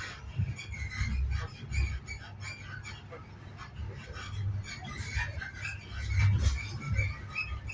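Low, steady rumble of a High Speed Train carriage running along the track, swelling now and then, with scattered short high-pitched chirps or squeaks over it.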